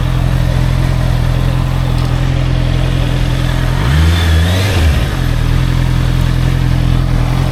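Honda CBR650R's inline-four engine with stock exhaust running at a steady pitch while riding, with a brief rise and fall in engine pitch about four seconds in.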